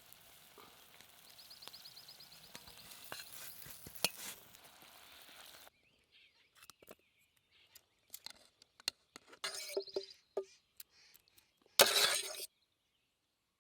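Food sizzling over a campfire with crackles, cutting off abruptly about six seconds in. Then come scattered clinks and knocks of cookware and utensils, with a louder scraping burst near the end.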